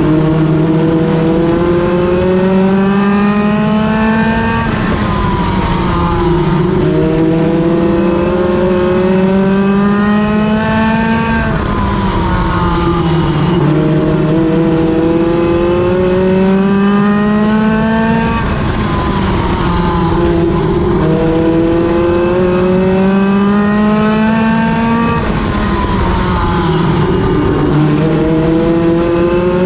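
NEMA Lite midget race car engine at racing speed, its pitch rising for several seconds, then dropping sharply and climbing again about every six to seven seconds, as it accelerates down each straight and lifts for each turn of a short oval.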